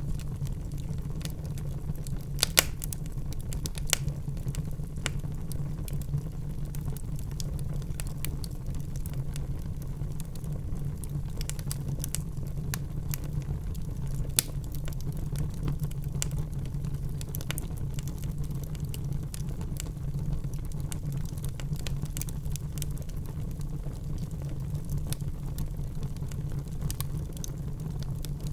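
Wood fire crackling in a fireplace: a steady low rumble of burning with frequent small crackles and a few louder pops, two within the first four seconds and one about halfway through.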